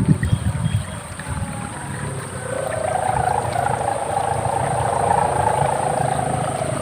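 Sendaren hummer on a gapangan kite droning in the wind: a wavering, moaning tone that swells in about two seconds in and holds. Wind buffets the microphone in the first second.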